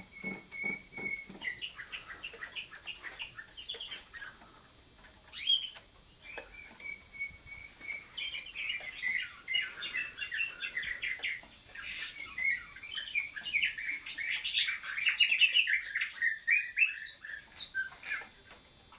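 Caged songbirds singing: rapid trilled phrases broken by a couple of long, steady whistled notes. The song grows busier and louder through the second half.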